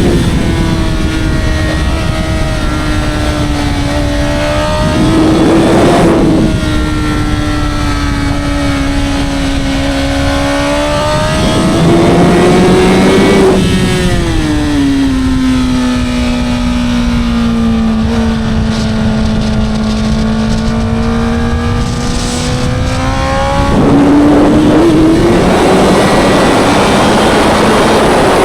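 Honda CBR1000RR's 999cc inline-four superbike engine and exhaust, heard on board at racing speed. Long stretches of a high, steady engine note sag slowly in pitch. They alternate with louder, rougher bursts about five seconds in, from about twelve to fourteen seconds, and again near the end.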